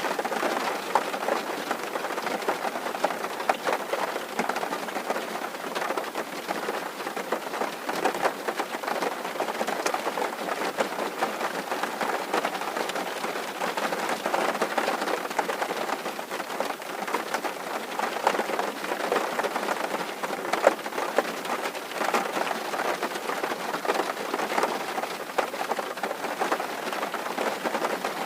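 Steady rain on a tin roof: a dense, even patter of many small drops striking the metal.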